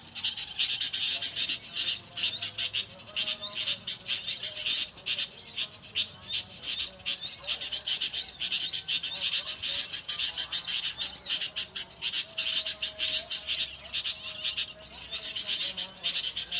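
Birds chirping densely and continuously: short, sharp calls repeated several times a second, over a steady high hiss.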